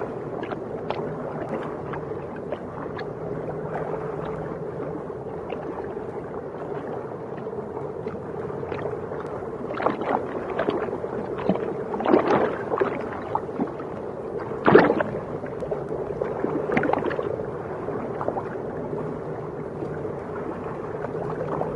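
Underwater ambience: a steady low hum with scattered clicks and crackles, the loudest about two-thirds of the way in.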